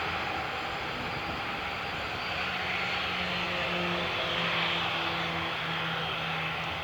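Airbus A380 jet engines running, a steady rush of engine noise with a faint hum underneath that swells slightly midway.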